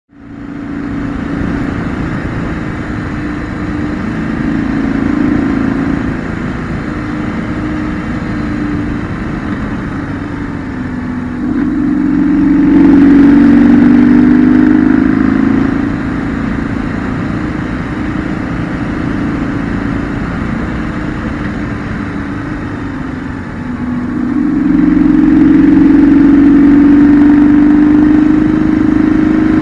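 2008 BMW R1200GS's air/oil-cooled boxer twin engine, heard from on board without wind noise, pulling through curves: the note rises and gets louder under acceleration about twelve seconds in and again from about twenty-four seconds, and drops back off-throttle in between.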